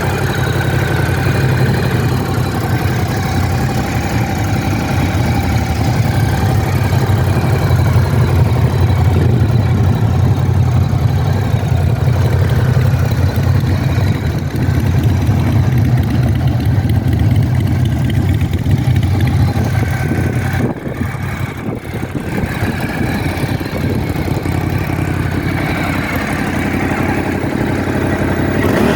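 Ducati Scrambler 1100's air-cooled L-twin engine idling steadily, its sound dipping briefly about two-thirds of the way through.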